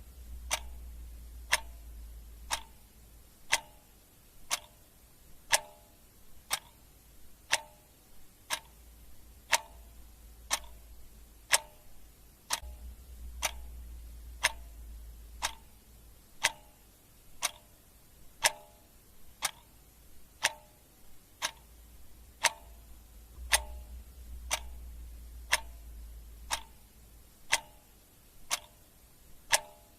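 Clock ticking in a steady, even tick-tock, about two ticks a second with every other tick louder. A faint low hum comes and goes underneath.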